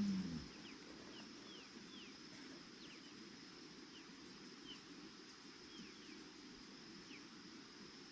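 Faint evening outdoor ambience: scattered short, falling bird chirps, over a steady high-pitched whine.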